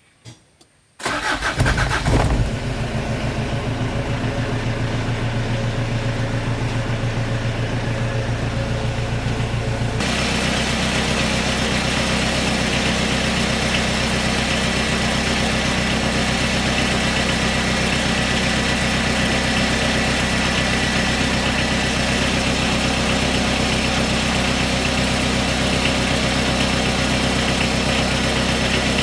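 Ford pickup truck's engine cranking and catching about a second in, then idling steadily. About ten seconds in the engine note changes and grows fuller, then it runs on evenly.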